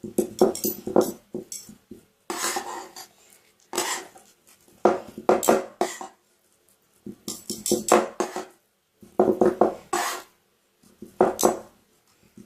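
Metal spatulas chopping and scraping rolled-ice-cream mix on a metal cold plate, in rapid bursts of taps with short pauses between.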